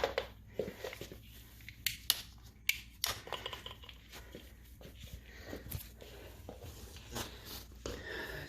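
Scattered light clicks, knocks and rustles of equipment being handled, over a faint steady low hum.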